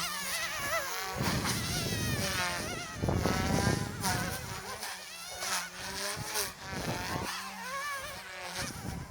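Goosky S2 micro RC helicopter flying, its electric motors and rotors giving a high, insect-like whine whose pitch rises and falls over and over as the throttle and pitch change. A rushing noise, like rotor wash on the microphone, swells about a second in and again around three seconds in.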